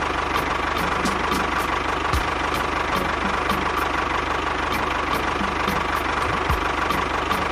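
Small motor of a DIY miniature tractor running steadily, with a regular ticking at about four ticks a second.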